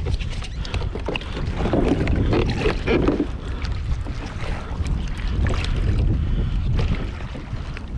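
Wind rumbling on the microphone of a kayak at sea, with water sounds and many short sharp clicks scattered throughout.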